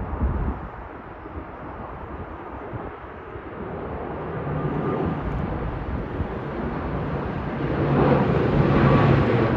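Aircraft engines drawing nearer, a steady hum and rushing noise that grows louder through the second half, with wind buffeting the microphone at the start.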